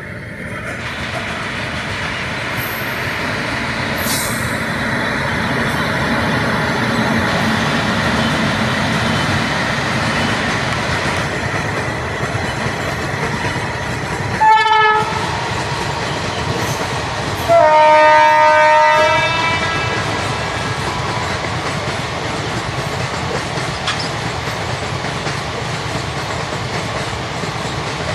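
WAP-7 electric locomotive hauling a passenger train past: steady rumble and clatter of wheels on rail, with a short blast of its air horn about halfway and a longer two-second multi-tone blast a few seconds later.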